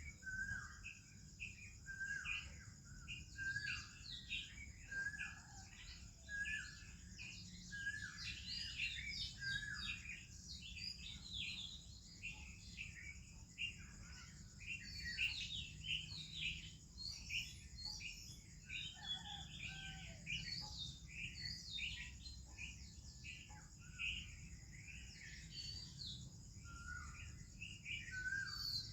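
Morning chorus of many birds chirping and singing over one another, the Oriental magpie-robin among them. A short lower note repeats about once a second through the first several seconds and again near the end, over a steady high hiss.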